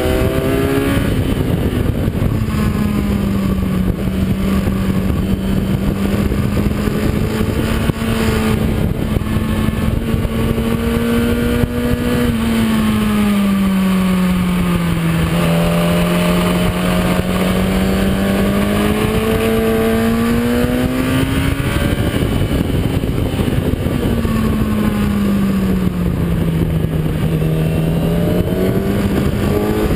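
Kawasaki ZX-10R inline-four sportbike engine heard onboard at speed on a racetrack, under a heavy rush of wind noise. The engine note holds steady, drops twice as the bike slows for corners, and climbs back as it accelerates out.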